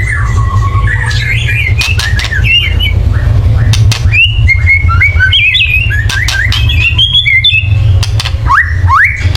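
White-rumped shama in a fast, loud 'kretekan' song: harsh clicking rattles mixed with short jumping whistles, then a few quick rising whistles near the end. This is the aggressive, excited song used as a lure to provoke other shamas. A steady low hum runs underneath.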